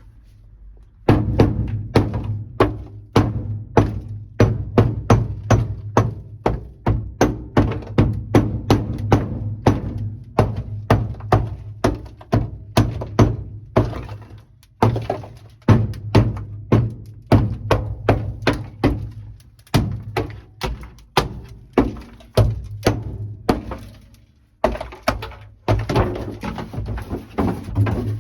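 Rapid repeated blows of a rubber mallet on the car's floor pan, cracking dry-ice-frozen sound deadening loose, about two to three thunks a second with a short pause near the end.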